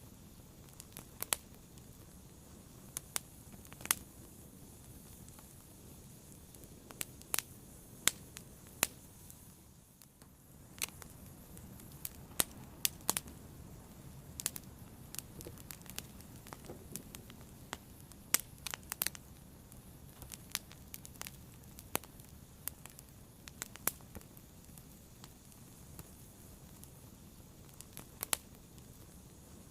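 Fire burning: irregular sharp crackles and pops over a low, steady rush of flame.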